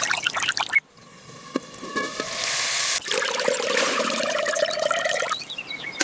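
Water trickling and pouring in a few short stretches that cut off abruptly, with faint steady ringing tones in between.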